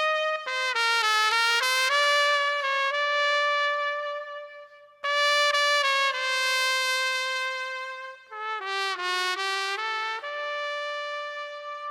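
Background music: a solo trumpet playing a slow melody of long held notes, in two phrases with a brief pause about five seconds in.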